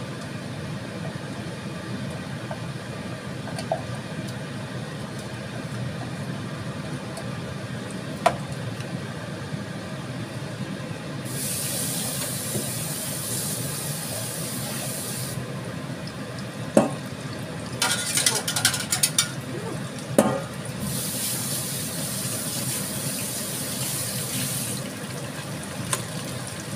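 Blended shallot-and-chilli spice paste sizzling in oil in a wok, over a steady low hum; the sizzle grows louder and hissier in two spells of about four seconds each. A spatula scrapes and taps the pan a few times in between.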